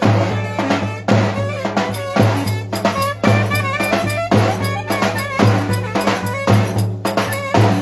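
Live band music with a drum kit beating a steady, driving rhythm, about two strokes a second, under an ornamented, wavering melody line.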